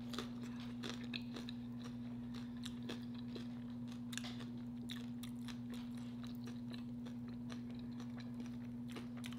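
Close-miked chewing of a chili cheese nacho chip: small crisp crunches and mouth clicks scattered irregularly, over a steady low hum.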